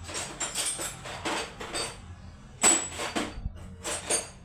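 Metal hand tools and a 14 mm socket clinking and clicking on a motorcycle's flywheel nut: a run of quick metallic clicks, then a sharp clank with a short ring about two and a half seconds in, and two more clanks near the end.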